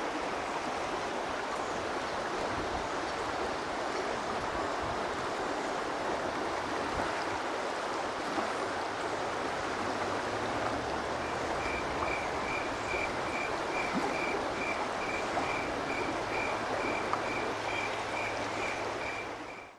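Steady rush of running water. From about halfway a high beep repeats about twice a second over a low hum.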